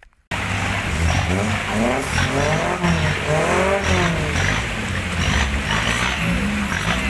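A Suzuki Jimny's engine revving hard under load on an off-road trail, its pitch rising and falling again and again, with tyre and drivetrain noise underneath. It starts abruptly about a third of a second in.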